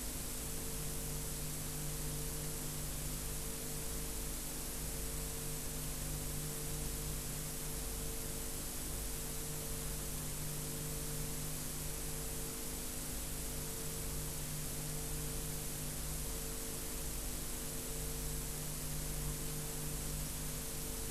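Steady hiss with a low mains hum underneath: the recording's own background noise, with nothing else sounding.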